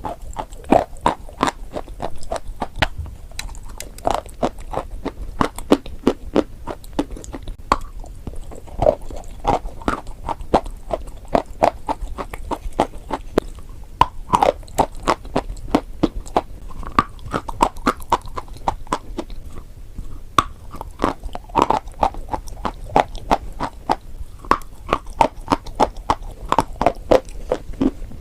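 Eating chalk and clay close to the microphone: crisp crunching bites and chewing, repeated over and over with sharp cracks.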